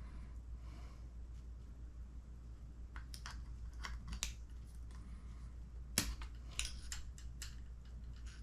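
Light clicks and taps of needle-nose pliers and small transmission parts being handled while a tiny pin is worked into an RC car's gearbox. They are scattered from about three seconds in, with the sharpest click about six seconds in, over a steady low hum.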